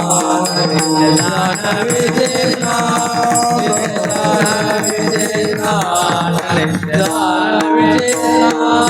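Marathi devotional bhajan: singing with drum and other instrumental accompaniment, the music going on between sung lines.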